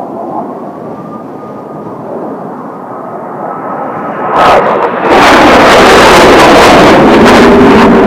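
Kawasaki T-4 jet trainers approaching with a faint, slowly rising whine over a low rumble, then about four seconds in a sudden, very loud jet roar as the aircraft pass close and stay loud.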